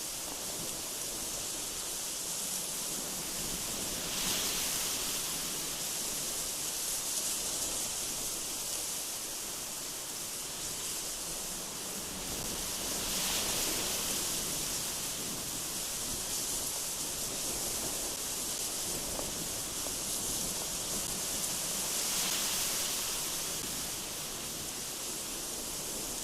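Strong, gusty mountain wind blowing through trees: a steady rushing hiss that swells into louder gusts about four seconds in, again around thirteen seconds, and again around twenty-two seconds.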